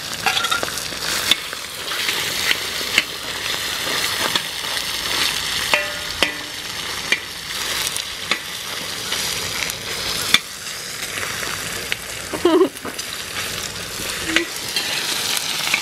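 Cubed pork chops and bacon sizzling and frying in a hot discada disc (cowboy wok), with a metal spatula scraping and stirring against the disc in short clicks and scrapes over a steady hiss.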